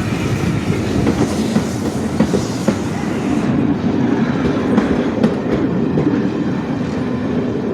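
Heritage passenger train running past close by, its coach wheels clattering over the rail joints over a steady rumble. A high hiss above the rumble drops away about three and a half seconds in.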